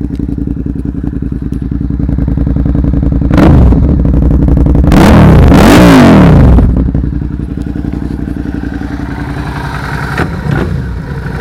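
Suzuki SV650S V-twin idling through a short 250 mm aftermarket GP-style exhaust can, with a de-snorkelled airbox. It is blipped once about three seconds in, then revved hard twice in quick succession around five seconds in before dropping back to idle, with another small blip near the end.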